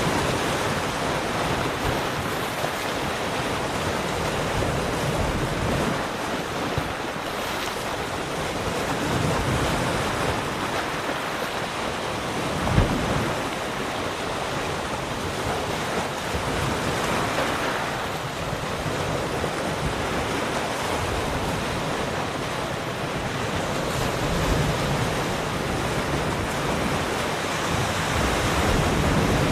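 Ocean waves breaking and washing on a shore in a continuous surging rush that swells and eases every few seconds, with wind noise on the microphone and one brief low thump about halfway through.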